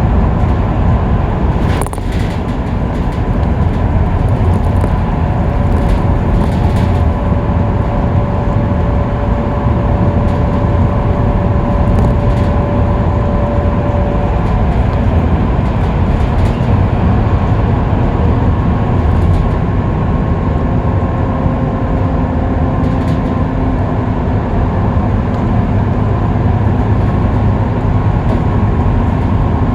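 Scania K310UB city bus cruising on the freeway: loud steady engine and road rumble with a thin whine held over it. There is a brief knock about two seconds in.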